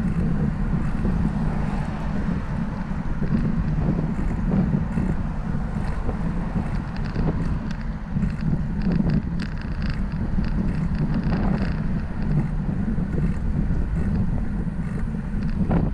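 Wind buffeting the microphone of a camera on a moving bicycle: a steady low rumble, with faint light ticks over it.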